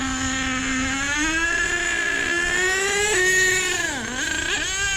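Small nitro engine of an RC truck running at high revs, its carburettor tuned a little lean. The pitch climbs over the first three seconds, then drops sharply and recovers twice near the end as the revs sag.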